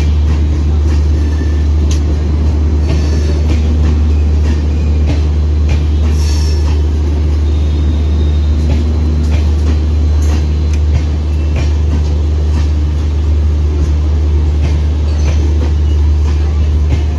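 Express train coaches rolling past along a station platform: a steady low rumble of wheels on the rails, with scattered clicks and knocks from the running gear.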